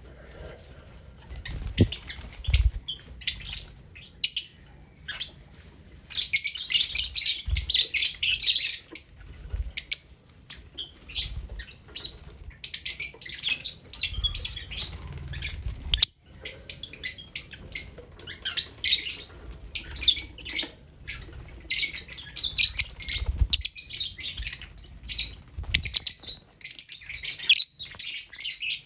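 Lovebirds chirping and chattering in rapid clusters of short, high calls, with occasional low thumps.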